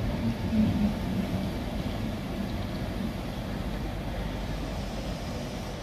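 Passenger train of LNER Mark 4 coaches rolling slowly along the platform: a steady low rumble of wheels on rail with a hum.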